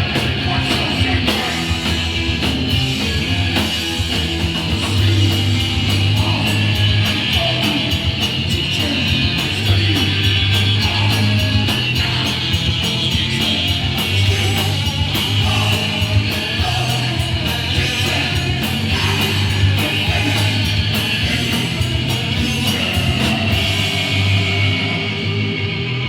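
Hardcore punk band playing live: distorted electric guitar, bass and fast, driving drums with crashing cymbals under shouted vocals. The cymbals drop out near the end.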